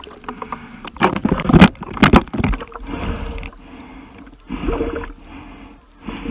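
Seawater splashing and sloshing around the camera as someone swims: a few sharp splashes in the first couple of seconds, then a softer swish repeating about once a second.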